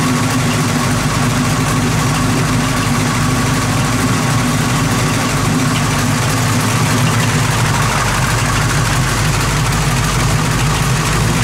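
AMC 360 V8 engine idling steadily, with a light, rapid ticking from the valve lifters that sounds like a sewing machine.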